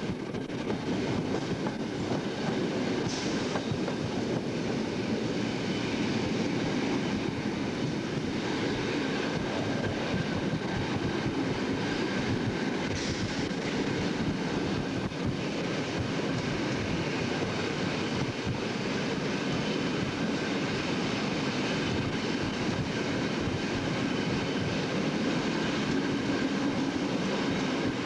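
Train running on the rails, heard from inside the carriage: a steady rumble of wheels with scattered clicks over rail joints and points, and two brief high squeals about three and thirteen seconds in.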